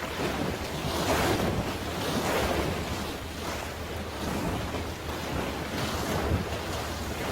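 Sea water washing and splashing in swells about once a second, with wind rumbling on the microphone.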